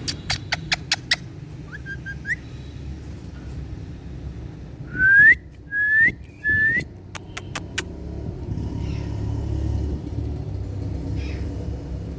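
Indian ringneck parakeet giving three short, loud whistles, each sweeping upward in pitch, about halfway through. A quick series of sharp clicks comes at the start and again just after the whistles, over a steady low rumble.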